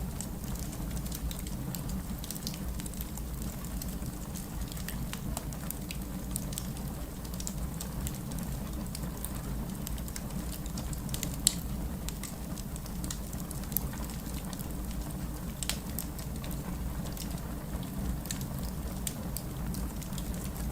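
Steady rain with a low rumble, mixed with a fireplace crackling in scattered sharp pops, one louder pop about halfway through.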